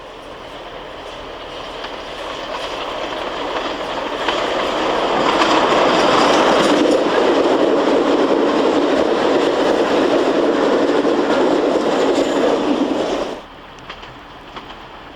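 Train running past at a station, wheels clattering over the rail joints, growing louder over the first few seconds and then cutting off suddenly near the end, leaving a quieter background.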